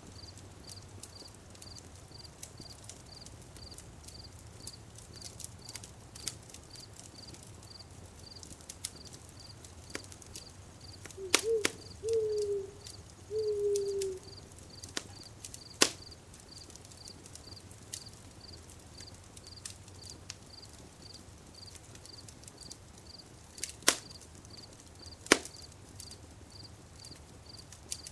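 Campfire crackling with sparse sharp pops over a cricket's steady, even chirping. About eleven seconds in, an animal gives three short falling calls.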